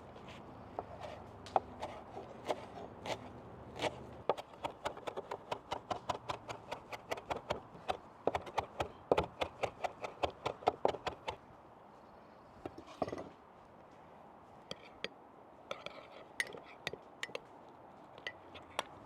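Knife chopping on a cutting board in quick, even strokes, several a second, for about seven seconds, then a few scattered knocks.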